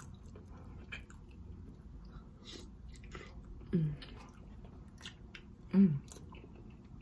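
Close-up mouth sounds of someone chewing boiled egg dipped in butter sauce: soft wet clicks and smacks, with two brief hums about four and six seconds in.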